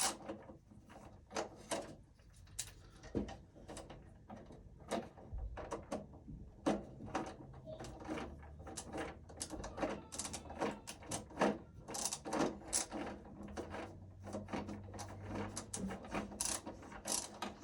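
Screwdriver tightening a wire's terminal screw on an AFCI circuit breaker: a long run of small, irregular clicks and ticks of metal and plastic.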